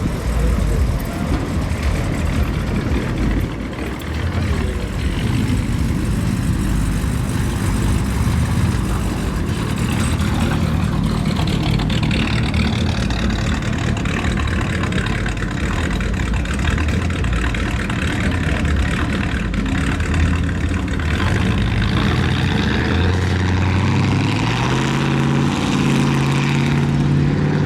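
Cars cruising by with their engines and exhausts running, a dense steady mix of vehicle noise. Near the end one engine's note climbs steadily in pitch as it accelerates.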